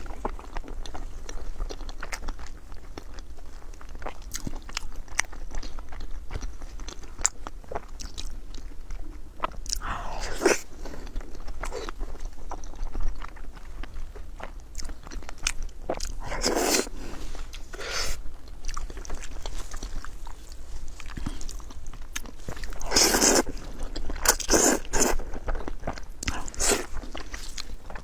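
Close-miked eating: a person chewing and crunching food, with many small wet mouth clicks. Several louder, longer bursts stand out, about 10, 17, 23 and 25 seconds in.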